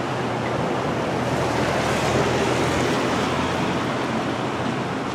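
Swollen river water rushing steadily over a washed-out temporary dam, swelling slightly in the middle.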